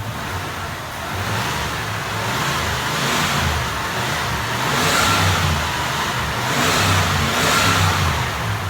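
1994 Cadillac Fleetwood Brougham's LT1 5.7-litre V8 running and revved up several times, rising and falling in loudness, a running check of an engine described as running very nice.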